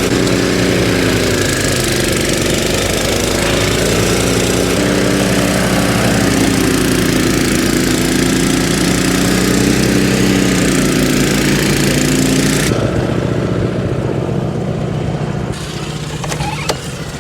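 Small single-cylinder engine of a walk-behind snowblower running steadily under load. About thirteen seconds in, its sound drops off abruptly to a lower, rougher rumble.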